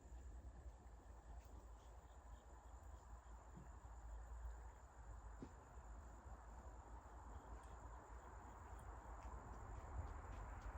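Faint outdoor ambience: a steady high insect trill over a low rumble, with a few faint clicks. A rustling noise grows louder near the end.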